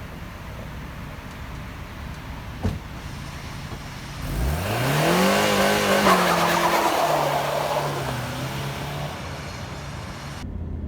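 A car engine running steadily, then revving hard about four seconds in as the car pulls away, the pitch sweeping up quickly, holding, and easing back down to a steadier run.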